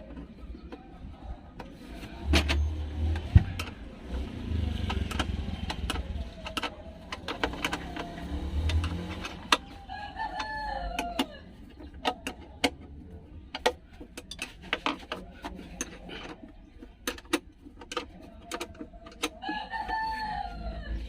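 A rooster crows twice, once about halfway through and again near the end. Between the crows come scattered sharp clicks and knocks, and a low rumble runs through the first half.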